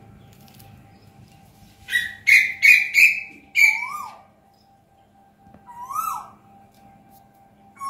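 Birds calling from a tree: a quick run of five loud, harsh calls about two seconds in, and single whistled notes that rise and then fall, heard a few times.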